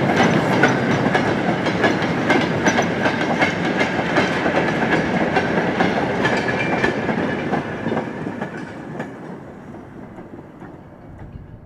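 Railway train rolling past, its wheels clicking over the rail joints, the sound fading away over the last few seconds.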